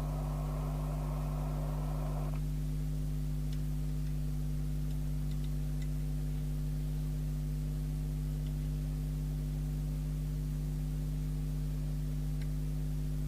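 Steady electrical hum with mains harmonics, with a band of hiss that cuts off abruptly about two seconds in and a few faint ticks.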